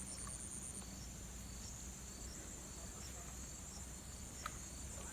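Crickets chirping: a steady, fast-pulsed high trill with a shorter chirp repeating about every half second. A faint click or two near the end.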